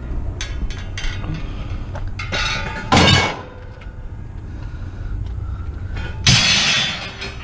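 Scrap metal being handled: clinks and knocks, with two loud metallic crashes about three seconds in and about six seconds in, as pieces are dropped or thrown down.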